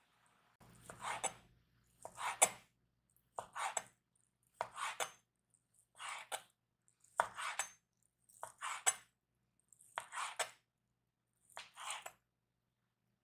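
Food preparation with a kitchen utensil against a board or bowl: about nine separate scraping strokes, roughly one every second and a half, each ending in a sharp click.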